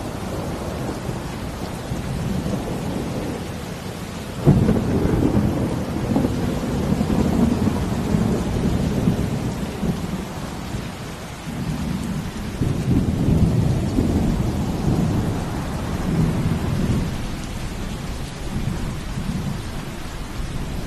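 Steady heavy rain over deep rolling rumbles. A sudden sharp crack about four and a half seconds in sets off a long rumble that swells and fades in waves.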